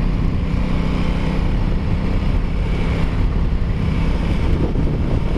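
2021 Aprilia Tuono 660's parallel-twin engine running at a steady cruise, heard from the riding bike with wind rushing over the microphone.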